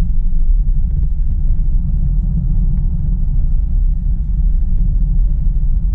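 Steady low rumble of road and tyre noise inside a Tesla's cabin, driving on wet roads in heavy rain.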